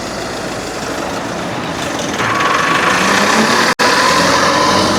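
Busy street traffic with a large vehicle's engine running close by, getting louder about two seconds in; the sound drops out for an instant just before four seconds.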